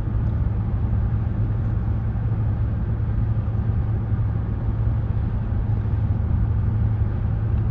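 Steady low rumble of a moving car, heard from inside the cabin: engine and road noise with no distinct events.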